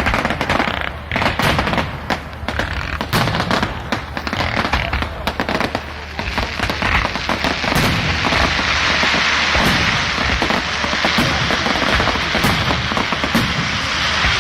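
Fireworks display: a rapid volley of bangs and crackles, giving way after about six seconds to a dense, continuous crackle with a few separate bangs.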